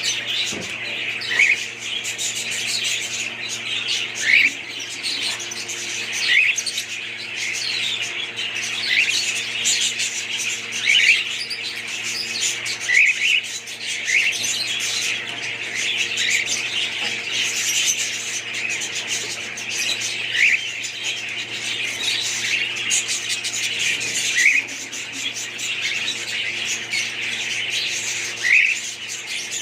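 A flock of budgerigars chattering and warbling continuously, with louder short chirps every couple of seconds.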